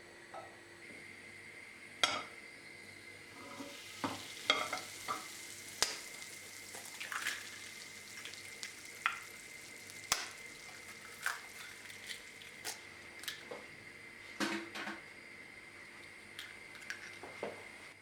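Food frying in a pan, with a faint sizzle under irregular clicks and taps of a utensil stirring against the pan.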